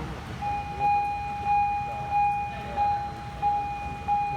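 Railway level-crossing warning signal sounding, a steady ringing tone that swells about one and a half times a second; it starts about half a second in.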